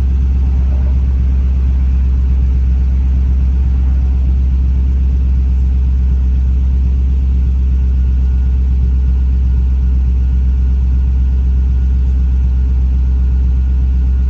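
1999 Lexus GS400's 4.0-litre V8 idling steadily through a Revel Medallion aftermarket exhaust, warming up after a cold start. The sound is low and even, with no revs.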